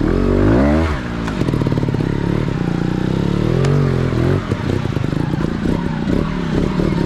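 GASGAS off-road motorcycle engine revving as it is ridden, its note climbing and dropping several times between steadier stretches.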